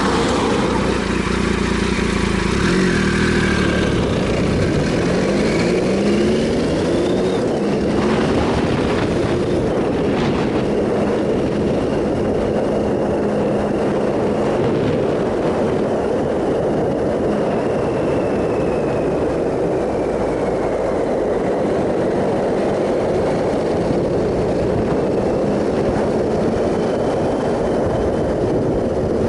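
Triumph Sprint ST 1050's three-cylinder engine pulling with its pitch rising a few seconds in, then running steadily at road speed under loud wind rush.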